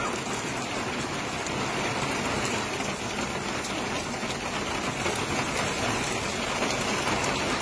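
Heavy rain pouring steadily onto pavement and lawn, an even hiss with no let-up.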